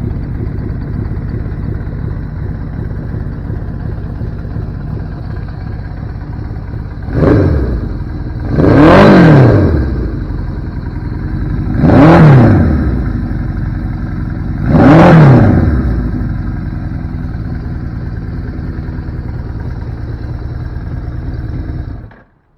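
1983 Suzuki GS1100's replacement air-cooled inline-four engine idling, then revved four times, a short blip followed by three stronger revs about three seconds apart, each falling back to idle. It is switched off near the end and the sound stops abruptly.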